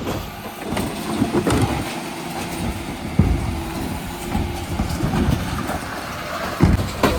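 Dennis Elite 6 refuse lorry running with a steady low rumble, with several knocks and clatters, the loudest about three seconds in and again near the end.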